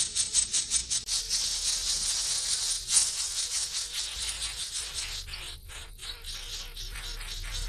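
Nestlings begging with rapid, high-pitched chirps, a fast pulsing at first that runs together into continuous chatter.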